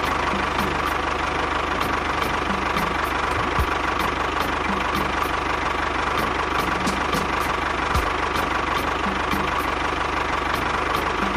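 Miniature model tractor running steadily as it drives: an even, engine-like drone with a faint regular ticking.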